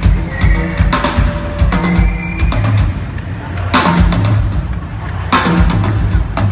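Live drum kit solo: rapid bass drum, snare and tom strikes, with cymbal crashes punctuating it, loudest about four and five and a half seconds in.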